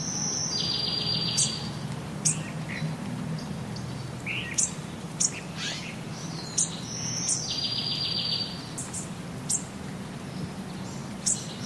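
Birds calling: twice, a high call runs straight into a buzzy, rapidly pulsed trill about a second long, with short sharp chirps scattered between, over a steady low hum.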